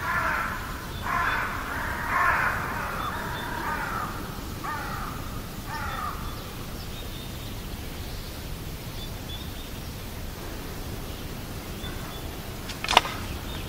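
Harsh cawing bird calls, several in the first six seconds, over a steady outdoor background hiss. A single sharp click comes near the end.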